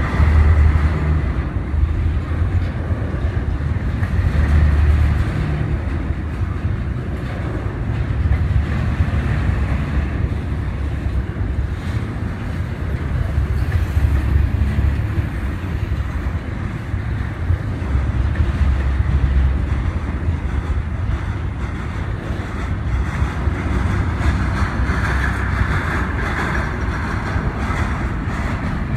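A train rolling past with a continuous heavy low rumble that swells and eases every few seconds, with some wind buffeting the microphone.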